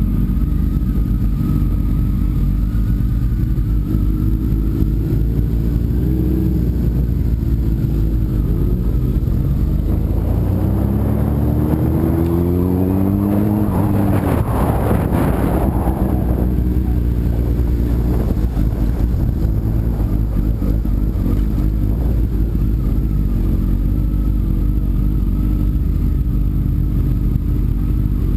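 Sport motorcycle engine running under way with rushing wind noise. About halfway through, the engine note climbs as it accelerates and the noise swells, then it settles back to a steady run.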